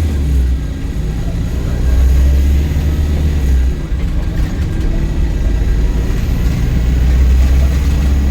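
Volvo B5LH hybrid double-decker bus's diesel engine pulling under load, heard from inside the cabin: a strong low drone that eases off briefly about half a second in and again around four seconds in, then comes back.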